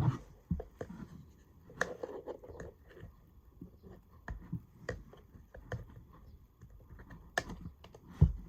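Irregular clicks, taps and light knocks of small objects being handled, loudest near the start and twice near the end.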